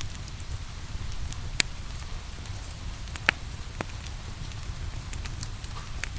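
Wood fire crackling, with scattered sharp pops and two louder snaps about one and a half and three seconds in, over a steady hiss of rain and a low rumble.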